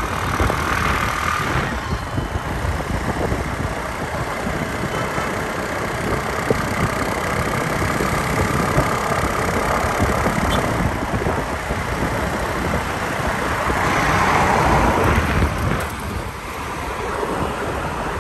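Lamborghini Aventador S's V12 engine running at low speed as the car drives by in traffic, with road noise around it. The sound swells twice, near the start and around fourteen seconds in.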